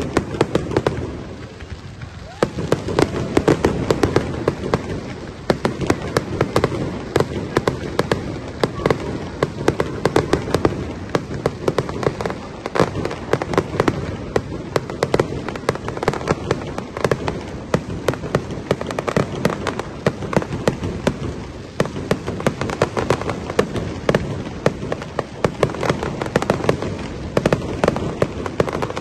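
A fireworks display: a dense, continuous run of bangs and crackles from bursting shells, with a brief lull about two seconds in.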